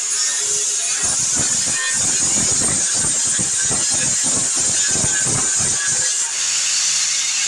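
Wire-feed welder arc crackling and sizzling on sheet-metal patches, a dense irregular crackle over a steady hiss, stopping about six seconds in.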